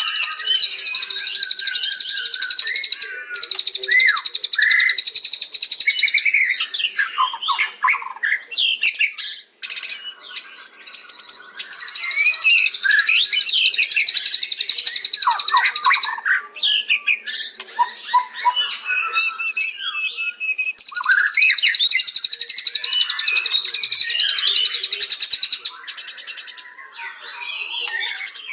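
White-rumped shama (murai batu) singing: varied whistled phrases that glide up and down, alternating with several long stretches of fast, high chattering.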